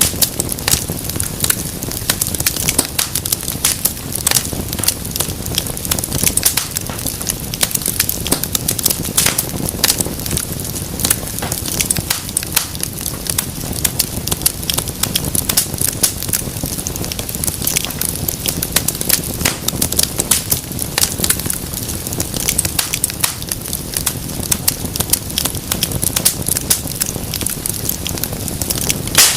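Wood fire burning in a fireplace: continuous crackling and popping of burning logs, many sharp snaps a second over a low steady rush of flame.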